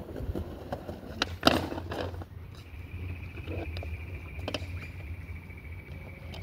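A skateboard's sharp knocks and clacks: a quick cluster about a second and a half in, the loudest of them, then a lone knock later. Under them runs a steady low rumble, and a thin, steady high tone sets in about halfway through.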